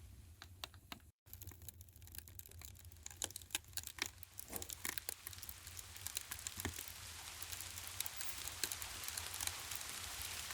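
Rain pattering, mixed with scattered sharp crackling ticks from a fireplace. The sound cuts out completely for a split second about a second in, then the rain swells gradually into a steady, dense patter.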